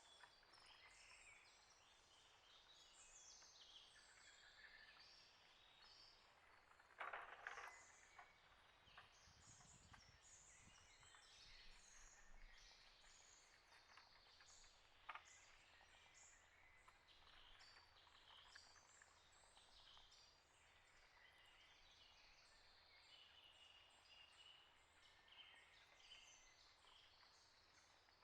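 Faint chirps and calls of wild birds, many short high notes overlapping throughout. There is a brief louder noise about seven seconds in and a sharp click around fifteen seconds in.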